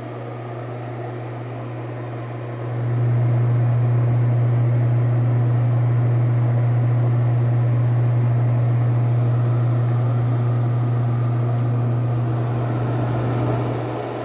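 Penn Zephyr bathroom exhaust fan running with a steady low hum over the rush of its air. The hum gets louder about three seconds in and eases near the end.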